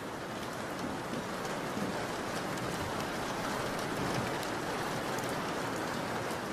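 Steady rain, an even hiss of many small drops pattering on a surface.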